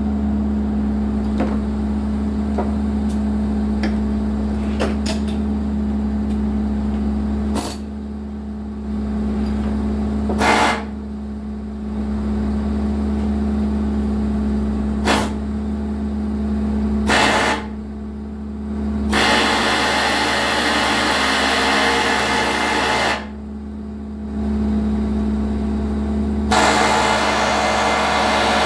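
John Deere 120 excavator's diesel engine running steadily while the machine works. A few sharp knocks come through, and there are stretches of loud hiss in the second half.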